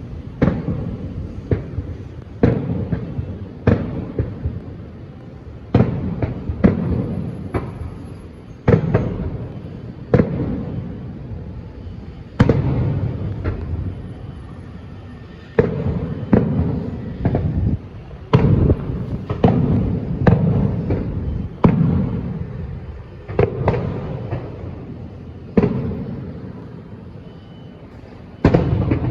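Aerial fireworks bursting in quick succession, a sharp bang every second or two, each followed by a low rolling rumble that dies away.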